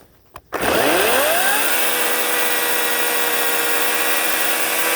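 Ryobi 18-inch electric chainsaw triggered after a small click: the motor and chain spin up with a rising whine over about a second, then run steady at full speed.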